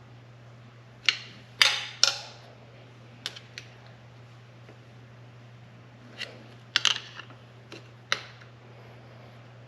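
Sharp clicks and knocks of parts and tools being handled during hands-on work, about ten in two clusters, with a steady low hum underneath.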